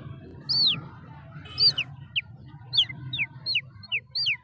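A bird chirping: a run of short, clear chirps, each dropping sharply in pitch, spaced at first and then coming about two or three a second. A steady low hum sits beneath.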